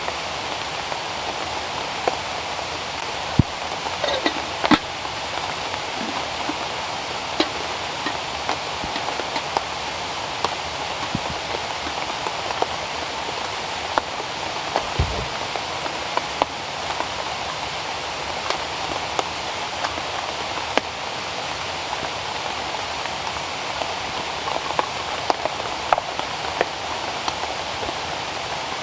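Steady rain falling in rainforest, an even hiss with scattered sharp drop ticks and a brief low thud about halfway through.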